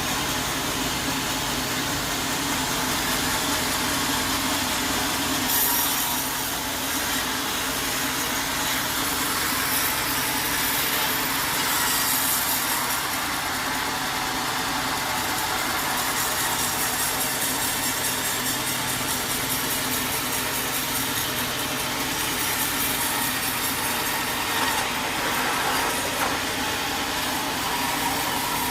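Sawmill saw running steadily and cutting through wood, with an engine hum underneath. A brighter, higher hiss joins about five seconds in and carries on.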